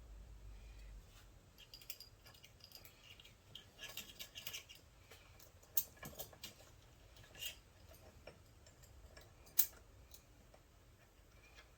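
Light metallic clicks, taps and clinks of hand tools and small parts as the brake is worked off a Peerless 206 transaxle, with a cluster of ticks about four seconds in and two sharper clicks around six and nine and a half seconds in.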